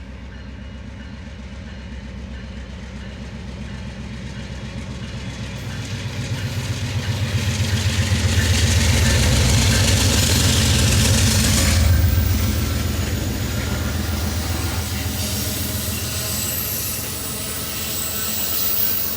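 Amtrak Empire Builder passenger train rolling past, its wheels clattering in a quick steady rhythm over the rail joints. The sound builds to its loudest about halfway, cuts off sharply in the highs, then settles to a lower rumble.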